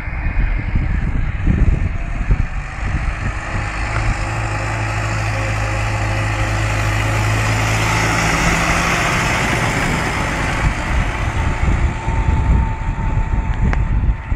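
An Erkunt Kudret 100 tractor's diesel engine running steadily, its drone swelling to loudest about two-thirds of the way through.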